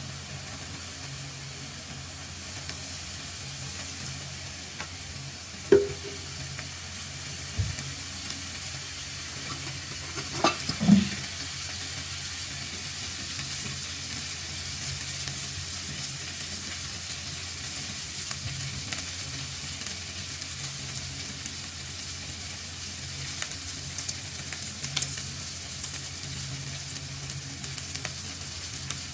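Food frying in a pan with a steady sizzle while it is stirred, with a few sharp knocks of the spoon or spatula against the pan, the loudest a pair about ten to eleven seconds in.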